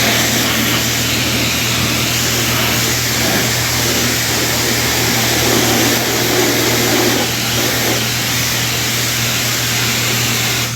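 High-pressure spray wand at a self-serve car wash, blasting water against a car body: a loud, steady hiss of spray over the low hum of the pump.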